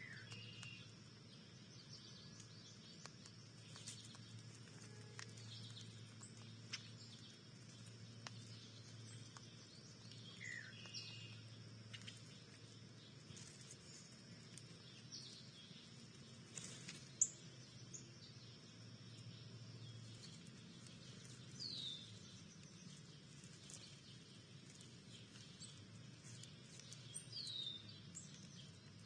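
Scattered short, down-slurred bird chirps from backyard birds at a feeder, heard over a faint low hum. A few light clicks are mixed in, the sharpest a little past halfway.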